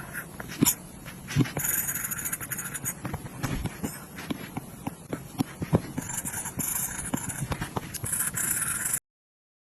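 An Apple Pencil's plastic tip tapping and scratching on an iPad's glass screen: irregular sharp taps mixed with stretches of scratchy sliding strokes. The sound stops abruptly near the end.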